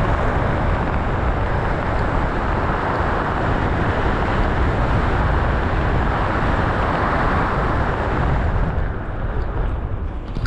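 Wind rushing over a skydiver's camera microphone: a loud, steady rush that eases near the end.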